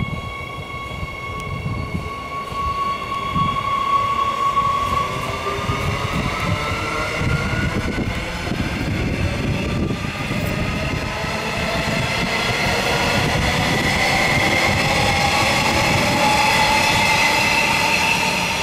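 Queensland Rail electric train pulling away, its traction motors giving a whine that rises steadily in pitch as it gathers speed, over the rumble of the wheels on the track. The whine holds steady for the first few seconds before it starts to climb.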